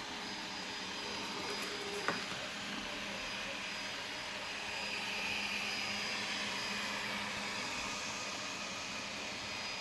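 Robot vacuum cleaner running on its low-power setting, a steady whir of its suction fan and brushes, with one sharp click about two seconds in.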